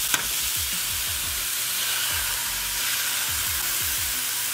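Ground-beef burger patty sizzling steadily in a hot frying pan, with an egg cracked into its centre. There is one sharp click just after the start.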